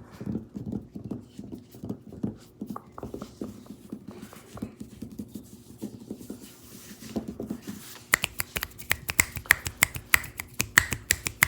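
Fingers tapping on a tabletop, soft and dull at first. About eight seconds in they change to sharp, crisp taps, about four a second.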